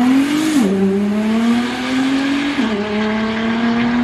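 Nissan GT-R's twin-turbo V6 accelerating hard down the strip, its pitch climbing steadily. It shifts up with a sudden pitch drop about half a second in and again around two and a half seconds in, then pulls on through the next gear.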